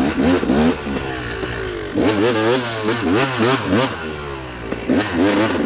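Dirt bike engine revved in repeated short throttle bursts, its pitch swinging up and down about once a second, over a steadier lower engine running underneath.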